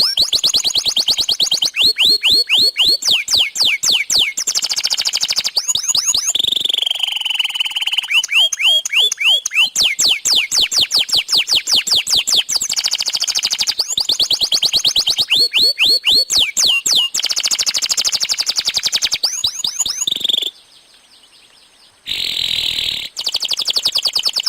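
Domestic canary singing a long, fast song: rapid trills of quick repeated sweeping chirps, with a few held whistled notes and a brief pause about twenty seconds in.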